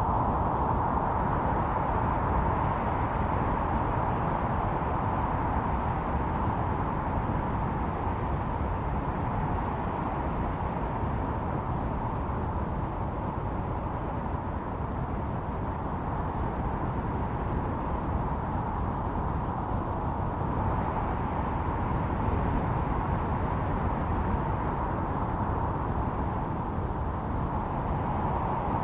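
Blizzard wind howling, with a whistling tone that swells near the start, fades, and rises again about two-thirds through and near the end, over a steady low rumble.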